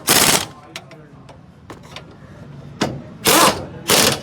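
An impact wrench fired in several short bursts, about four of them, each lasting under half a second, over a steady low hum, as engine-mount bolts are run in or out.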